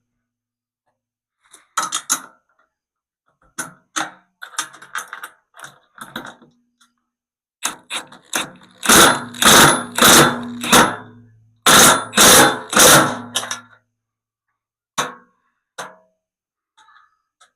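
Tools working on the steel loader bucket while the bolt-on hooks and receiver are fitted: a string of sharp metallic clanks and short bursts, irregularly spaced, loudest and closest together from about nine to thirteen seconds in, with a low hum under that loud stretch.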